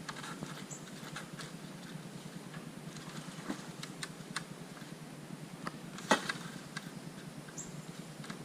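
Scattered clicks and knocks of the new guillotine door being test-fitted into a hog trap, with one loud knock about six seconds in.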